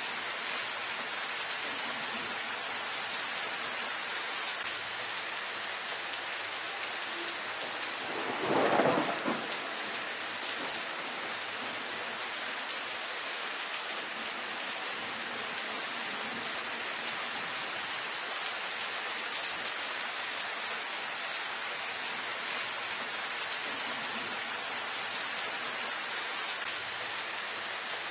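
Steady rain, an even hiss. About eight seconds in there is one louder swell lasting around a second and a half.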